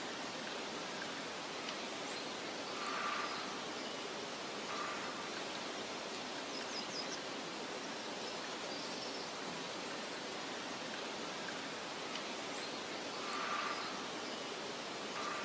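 Steady soft wind hiss across a meadow, swelling briefly twice, with faint high bird chirps now and then.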